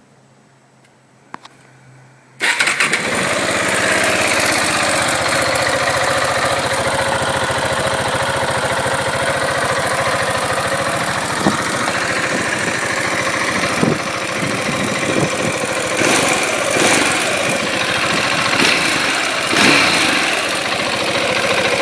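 A KTM 690 Duke's single-cylinder engine on its stock exhaust, with the factory catalytic converter, starts up suddenly about two seconds in and then idles steadily. A few short blips of the throttle come near the end.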